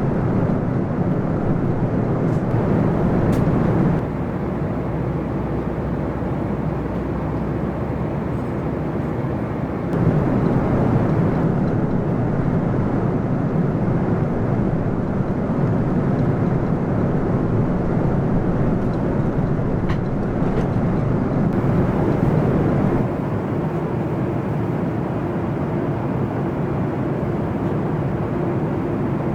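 Steady rushing cabin noise inside a Boeing 747-400 airliner, from its engines and airflow. It changes level abruptly a few times.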